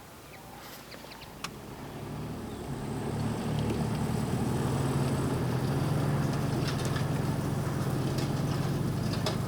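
A vehicle engine running with a steady low hum, growing louder over the first few seconds and then holding steady. A sharp click sounds about one and a half seconds in.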